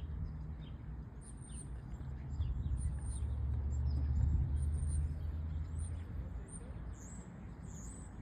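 Small birds chirping and twittering in repeated short, high calls, over a steady low rumble that swells in the middle and fades toward the end.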